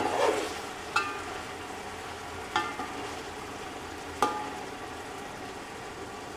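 Chicken and masala sizzling in oil in a large aluminium pot, stirred with a metal spoon that strikes the pot with sharp ringing clinks three times. The masala is being fried down until the oil separates.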